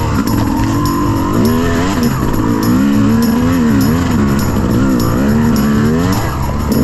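Dirt bike engine revving up and down in quick, repeated swells, the sound of a rider working the throttle to find traction on a slippery mud climb. Music plays underneath.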